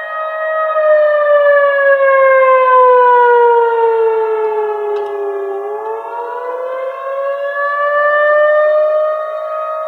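Siren wailing. Its pitch falls slowly for about four seconds and then climbs back up, over a second tone that holds steady.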